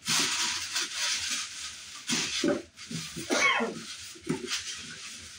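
Plastic and paper packing wrap crinkling and rustling as it is pulled off a stand mixer and tossed aside.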